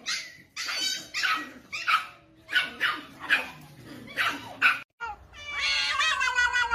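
A dog barking and yipping in short calls, about two a second. About five seconds in, after a sudden cut, a cat's long drawn-out meow begins, its pitch wavering.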